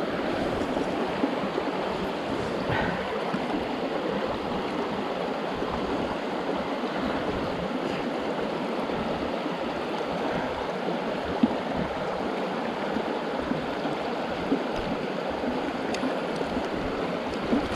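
Mountain stream water rushing steadily over rocks, with a few faint ticks, the sharpest about eleven seconds in.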